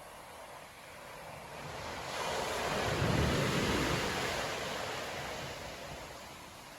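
Storm-driven sea waves breaking on a beach: one wave builds about two seconds in, crashes with a low rumble around three seconds, then washes out and fades.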